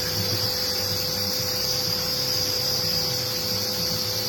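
Vacuum cleaner running steadily, its motor giving a constant high whine.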